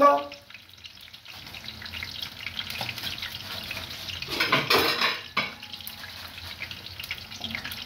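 Vegetables frying in oil in a pan with a steady sizzle, surging louder for about a second around the middle.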